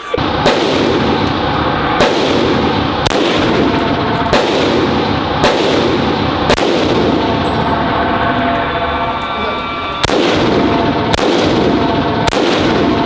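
Gunshots fired one at a time at a shooting range, about nine shots roughly a second apart, with a pause of a few seconds in the middle. Each shot ends in a short echoing tail.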